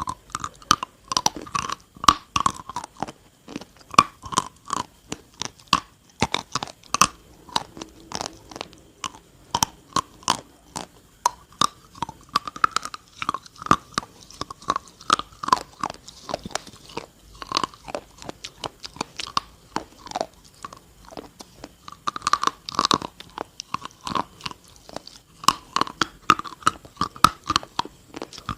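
A person biting and chewing something hard, dry and brittle, miked very close: a steady run of sharp crunches several times a second.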